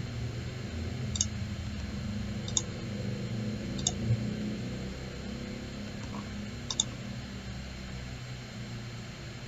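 Computer mouse buttons clicking four times, irregularly spaced, over a low steady background hum.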